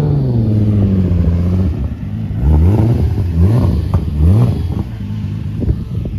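A car engine running at a wavering idle, then revved in three quick blips about two and a half seconds in, each rising and dropping back.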